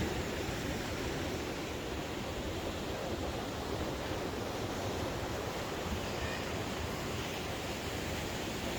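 Ocean surf breaking steadily, mixed with wind, as an even wash of noise with no distinct events.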